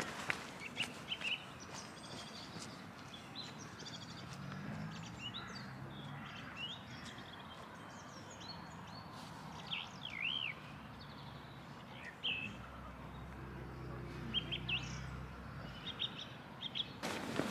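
Small birds chirping, short quick notes that rise and fall, scattered throughout over a faint low hum that comes and goes.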